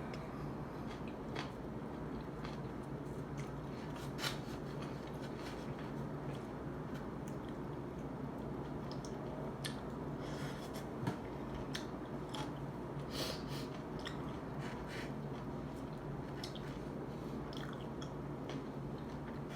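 A person eating close to the microphone: chewing and biting, with many short wet mouth clicks and smacks scattered throughout, over a steady low hum.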